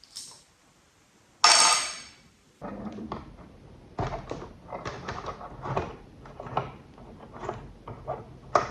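Parts of an old desk lamp being handled and worked on: a sharp clank with a brief ring about a second and a half in, then a run of irregular knocks and scrapes.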